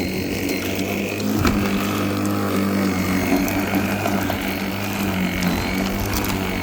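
Worx 40 cm cordless battery lawnmower running, its electric motor and spinning blade giving a steady hum. A single knock comes about one and a half seconds in, after which it runs a little louder.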